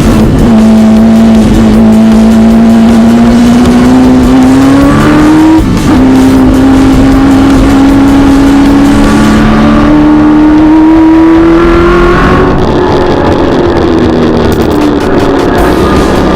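Muscle car race car's V8 engine running hard under acceleration, its pitch climbing, a gear change about five and a half seconds in, then climbing again before it eases off about twelve seconds in.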